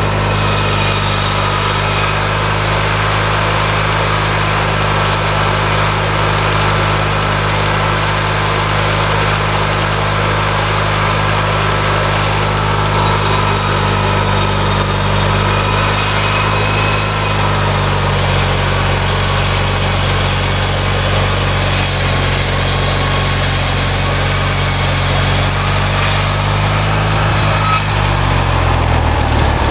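Small lawnmower engine powering a homemade sawmill, running steadily. Its note shifts slightly about halfway through, and near the end it slows with a falling pitch.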